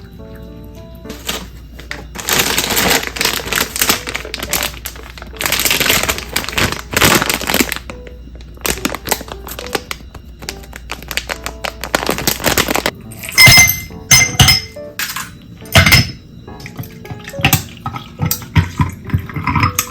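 Kitchen sink sounds: two bursts of running water, then dishes clinking and knocking against each other, over soft background music.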